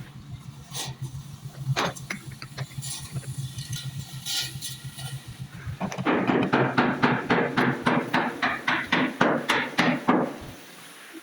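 Hammering on car body steel: scattered knocks, then a fast run of about five blows a second for around four seconds, over a steady low hum.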